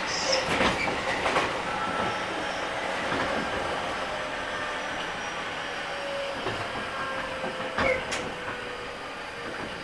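JR 205-5000 series electric train with a Toyo IGBT VVVF inverter, heard from inside the car while running: a steady rumble of wheels on rail, with a faint motor whine that slowly falls in pitch as the sound gradually gets quieter. There is one sharp clack about eight seconds in.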